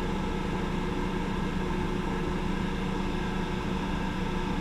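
South Bend 14½ lathe running with a steady, unchanging hum.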